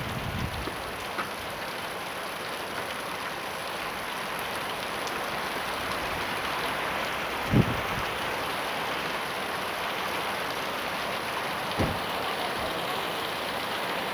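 Heavy rain falling steadily, an even hiss of rain on surfaces. Two short dull thumps cut through it, the louder about halfway in and a smaller one near the end.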